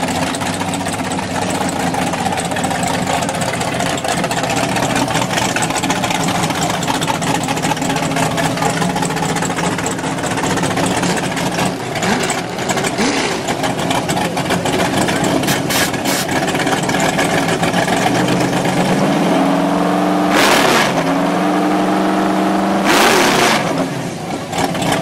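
Drag-race car engines running at the starting line, idling loudly, then revving up near the end with two short, sharp, very loud blasts a couple of seconds apart.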